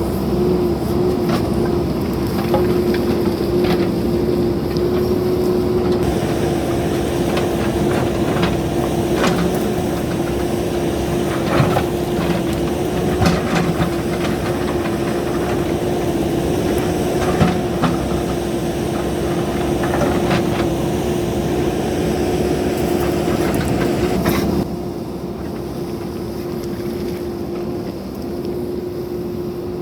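JCB backhoe loader's diesel engine running steadily with a constant whine, with scattered knocks and clanks of the bucket working soil and rock. The sound drops abruptly to a quieter, duller running about 25 seconds in.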